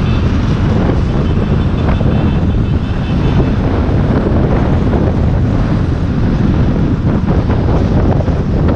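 Heavy wind buffeting the microphone while riding an electric dirt bike at speed, over steady road and traffic noise. Faint high-pitched tones run through the first few seconds.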